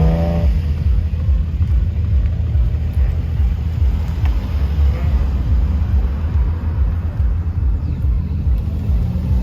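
Vehicle engine exhaust rumbling low and heavy, after a rev that rises and breaks off about half a second in.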